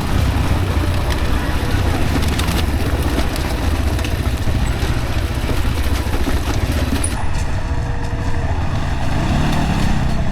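Yamaha WR155R single-cylinder dirt bike engine running at low revs on a rough rocky trail, with wind on the microphone and repeated knocks and rattles from the bike going over rocks; the engine revs up briefly near the end.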